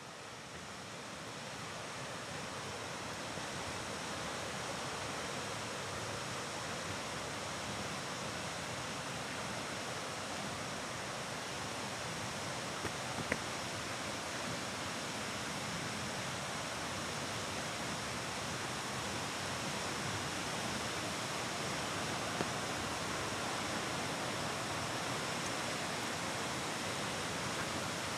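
Waterfall rushing steadily, fading in over the first few seconds, with a faint click about halfway through.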